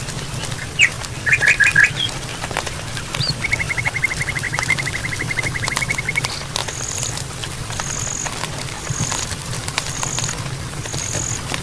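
Songbirds calling over the scattered crackle of a campfire: a few quick chirps in the first two seconds, a rapid even trill of about three seconds, then a series of six short, high notes about one a second.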